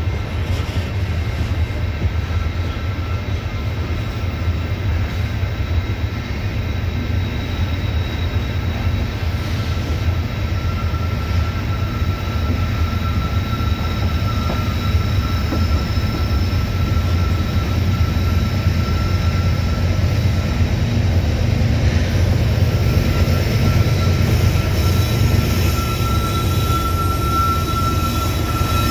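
Loaded coal hopper cars of a freight train rolling past at speed: a steady low rumble and clatter of steel wheels on rail. A faint high wheel squeal comes and goes, and the sound grows louder near the end as a diesel locomotive draws level.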